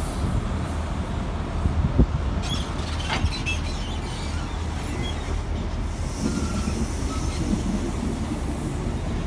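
CrossCountry InterCity 125 (HST) train rolling slowly past the platform with a steady low rumble. A few sharp clicks of wheels over rail joints come around two to three seconds in, and a faint wheel squeal follows about six seconds in.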